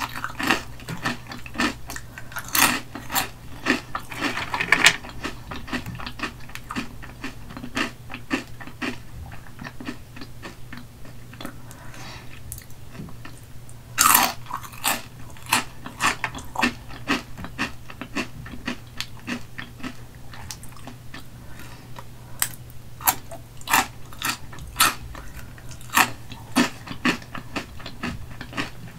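Close-miked crunching and chewing of Hot Cheetos dipped in cheese sauce: a steady run of crisp cracks, with a louder burst about 14 seconds in.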